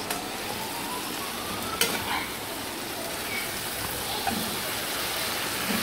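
Okra frying with tomato and onion in a wok-style pan, sizzling steadily while a spoon stirs it, with a single sharp click about two seconds in.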